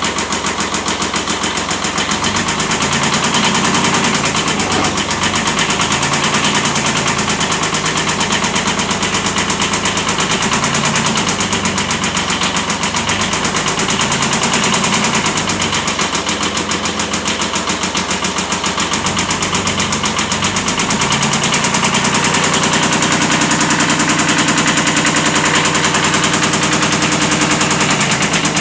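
Kubota B7100 tractor's three-cylinder diesel engine running with a rapid, even knock from a worn connecting-rod bearing (a slight rod knock). The engine speed shifts about three-quarters of the way through.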